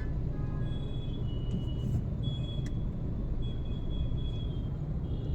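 Car driving on the road: a steady low rumble of road and engine noise, with faint thin high tones coming and going above it.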